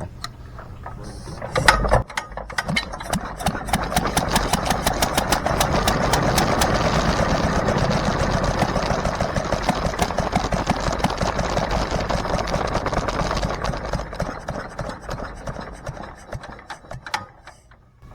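McCormick-Deering LB single-cylinder engine firing up after hand-cranking: a sharp bang about two seconds in, then a fast, even exhaust beat for roughly ten seconds that slows, weakens and dies out near the end.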